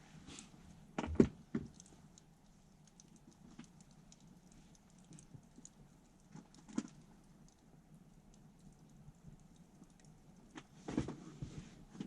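Wood fire crackling with scattered sharp pops and clicks, with a few louder knocks and clatters about a second in and again near the end.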